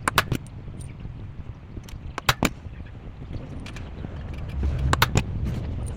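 Freshly overhauled motorcycle engine running at low speed, a low rumble that swells briefly near the end, with a few sharp clicks and knocks over it.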